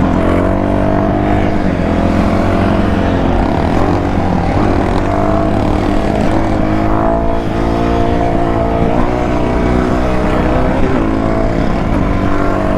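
Dirt bike engine running and revving, its pitch rising and falling over and over as the throttle is worked.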